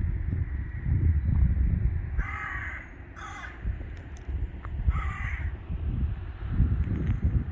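A crow cawing three times, in short harsh calls about two, three and five seconds in, over a constant low rumble like wind on the microphone.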